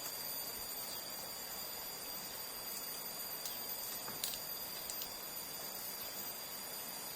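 Steady chorus of insects, a continuous high-pitched trill, over a soft even hiss, with a few faint ticks around the middle.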